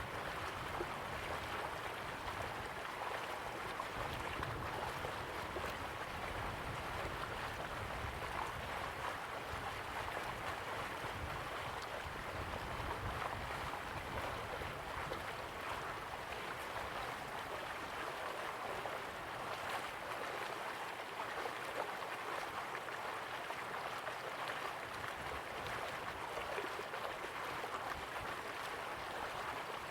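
River water flowing slowly, a steady rushing and babbling.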